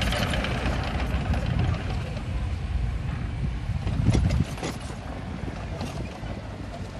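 Heavy diesel earthmoving machinery rumbling, loudest for the first four seconds or so and then easing off, with a few knocks about four to five seconds in.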